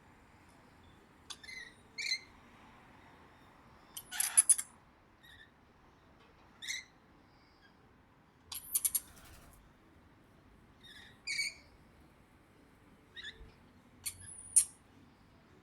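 A parrot calling in short chirps every second or two, with three louder squawks, about four seconds in, near nine seconds and near the end.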